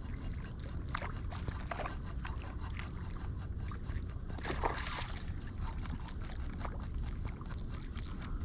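Water sloshing and lapping against a kayak hull over a steady low rumble, with a louder splash about four and a half seconds in.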